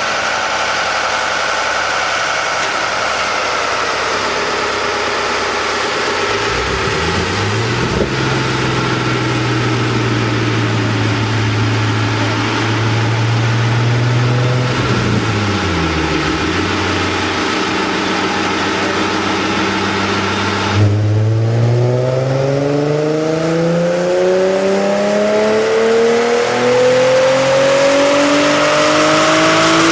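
Nissan 370Z's 3.7-litre V6 running on a dyno through a Tanabe Medalion Touring exhaust and Tanabe Y-pipe, holding fairly steady revs, then from about two-thirds of the way in climbing steadily in pitch as it is pulled up through the rev range.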